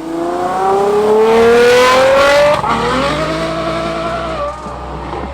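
Ferrari F12's V12 through a full IPE valved exhaust, accelerating hard: the note climbs steadily, drops sharply at an upshift about two and a half seconds in, then climbs again more slowly before the throttle eases off near the end.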